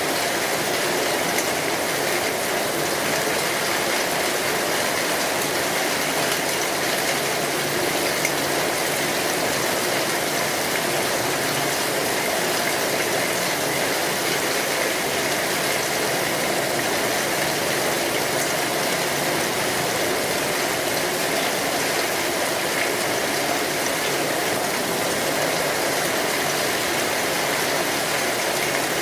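Steady rain falling on an umbrella, an even hiss that holds level throughout.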